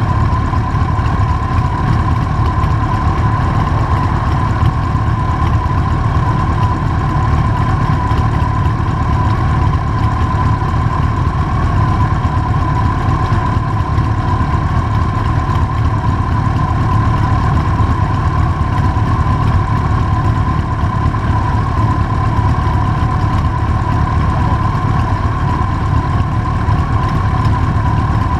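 Motorcycle engine running at a steady, unchanging speed, a continuous low rumble with a constant high whine over it.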